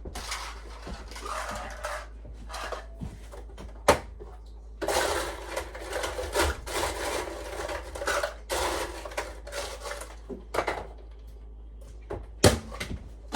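Ice clattering as it is scooped from a countertop ice maker into a cup, in two stretches of rattling. There are two sharp knocks, one about four seconds in and one near the end.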